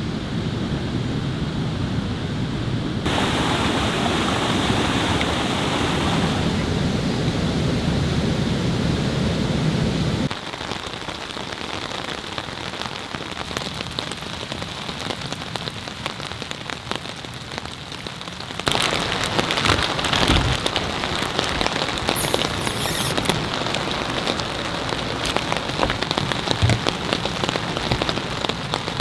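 Heavy rain pouring down in a steady hiss that changes character abruptly several times, about three seconds in, around ten seconds and near nineteen seconds, as the shots change, louder again in the last stretch.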